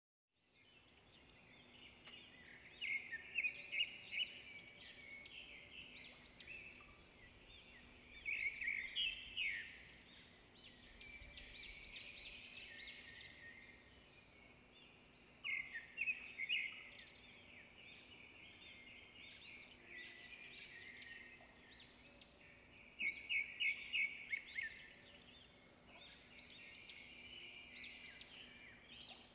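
Birds chirping, with louder bursts of rapid trills every several seconds and a faint steady hum underneath.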